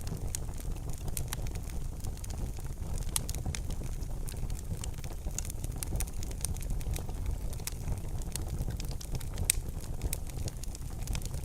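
Wood fire burning in a fireplace: a steady low rush of flames with frequent sharp, irregular crackles and pops, a couple of louder pops about three seconds in and near the end.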